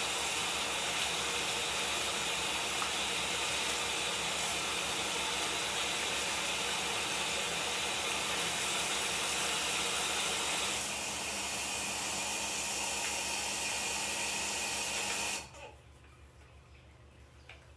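Water running steadily, its sound changing slightly about eleven seconds in, then shut off abruptly about fifteen seconds in.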